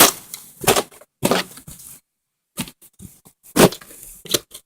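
Irregular crunches and thumps of snow being trodden and packed, with a brief dropout to silence about two seconds in.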